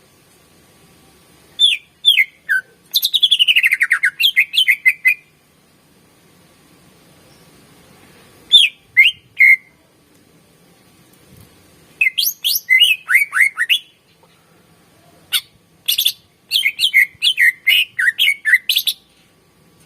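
Cucak ijo (greater green leafbird) singing in five loud phrases of rapid, sharp chirping notes that slide downward, with pauses of a few seconds between the phrases.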